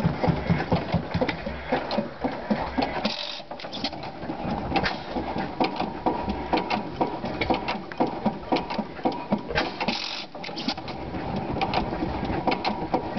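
10 hp Stover stationary engine running, a steady rhythmic clatter of strokes, easing briefly twice.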